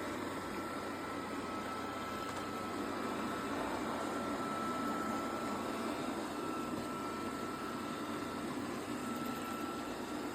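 eufy Omni C20 robot vacuum running steadily: an even motor-and-airflow noise with a thin, high, steady whine above it.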